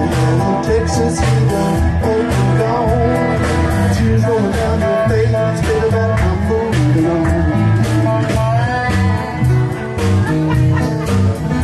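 Live band playing a blues-country tune: guitar, bass and drums keeping a steady beat, with singing.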